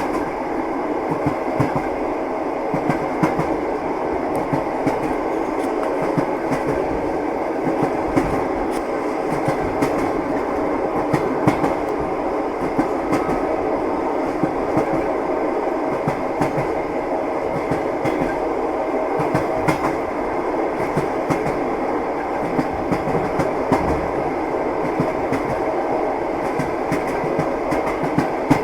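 Train wheels clattering along the rails: a steady rumble with frequent short, irregular clicks and knocks.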